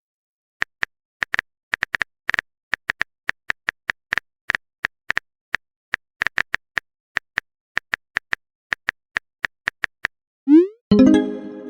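Irregular quick taps of a phone-keyboard typing sound, about four a second, then near the end a short rising swoosh and a brief pitched tone like a message-sent or notification sound.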